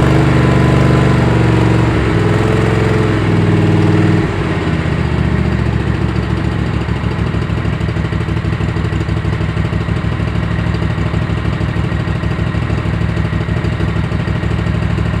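Kohler Command V-twin engine running at a higher speed, then dropping to a lower idle about four seconds in, with an even, pulsing firing beat at idle.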